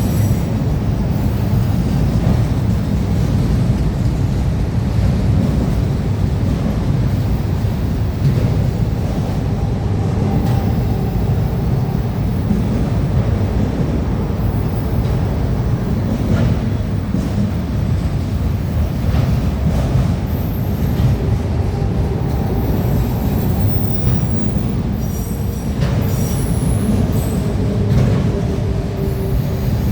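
Freight train cars rolling past, a steady heavy rumble of steel wheels on the rails, with faint thin squeals from the wheels now and then.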